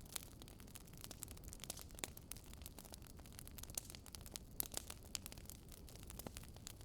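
Wood fire crackling: faint irregular pops and snaps over a soft low rumble.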